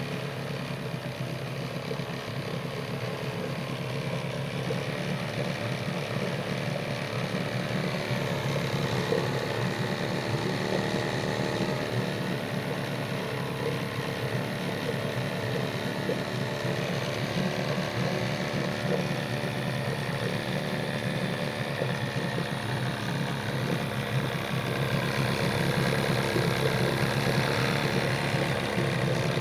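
Mercury 9.8 hp two-stroke, two-cylinder outboard motor running steadily at low speed, slightly louder over the last few seconds.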